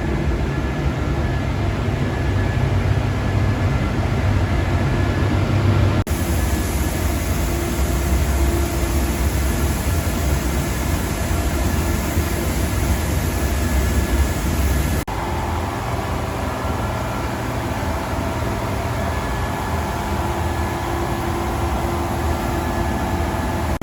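Paint spray booth's extraction fans running with a steady rushing drone, with a brighter hiss added between about six and fifteen seconds in.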